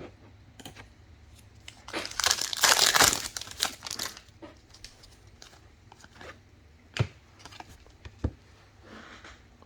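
Plastic trading-card pack wrapper torn open and crinkled, loudest for about two seconds, followed by scattered light clicks and taps as the cards are handled.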